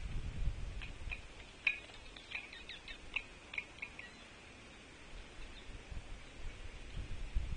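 Small songbirds calling: a quick run of about a dozen short, high chirps beginning about a second in and lasting some three seconds, some notes dropping in pitch, over a faint low rumble.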